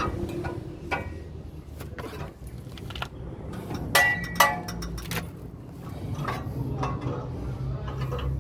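Metal tools and parts clinking and knocking against each other, a few strikes ringing, the loudest two about four seconds in, over a low steady rumble.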